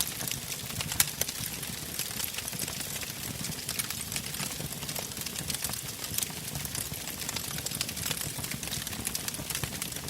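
Wood fire burning in a fireplace, with frequent sharp crackles and pops over a low, steady rumble of flame; one louder pop comes about a second in.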